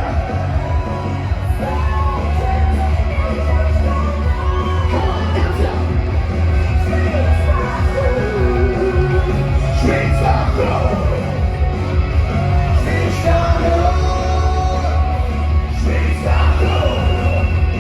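Live band music with a steady heavy bass, and a singer yelling and singing over it in sliding, drawn-out lines.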